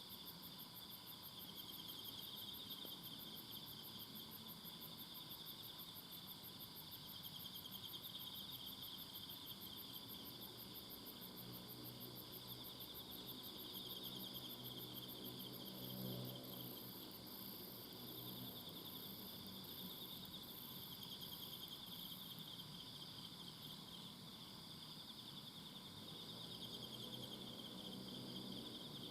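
A chorus of several kinds of insects trilling without pause: steady lower trills overlaid by a fast-pulsing very high trill that turns choppy about halfway through. A faint low hum swells in the middle and fades out.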